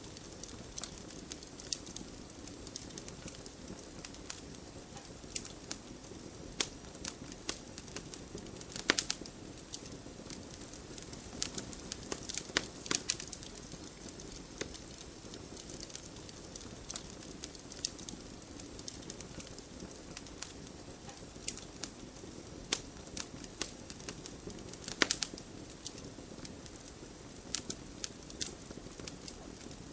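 Wood fire burning in a fireplace: a steady soft rush under irregular crackles, with a few louder sharp pops about nine, thirteen and twenty-five seconds in.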